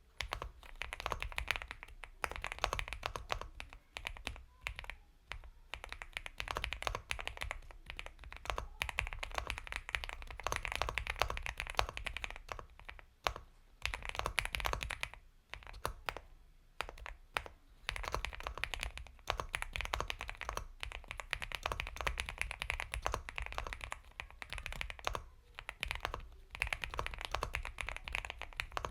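Typing on an Epomaker x Feker Galaxy 80 mechanical keyboard with Gateron Milky Yellow Pro linear switches: fast runs of soft, creamy keystrokes, broken by brief pauses.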